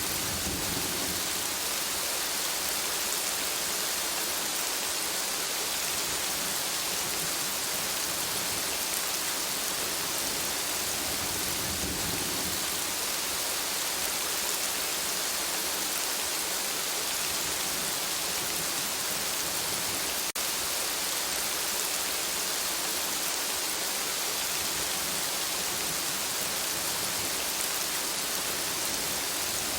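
Steady rain falling, a continuous even hiss of countless drops with no letup. It dips briefly once about twenty seconds in.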